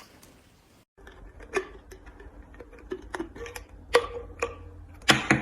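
Irregular sharp clicks and taps, roughly one or two a second, over a steady low hum. A louder cluster of clicks comes near the end.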